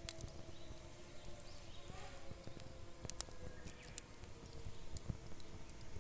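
Wood campfire crackling, with scattered sharp pops and snaps, a few of them close together about three to four seconds in, over a low steady hiss of the fire. A faint steady hum sits underneath.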